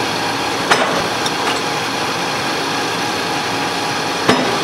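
An engine running steadily, with two sharp knocks about three and a half seconds apart and a couple of lighter clicks after the first.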